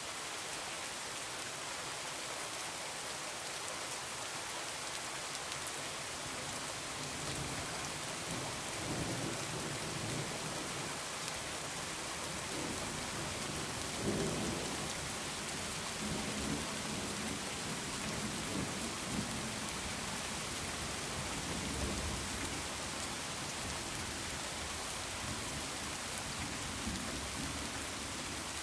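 Heavy rain falling steadily, with rolling thunder rumbling in from about a quarter of the way through, loudest near the middle and again a little later.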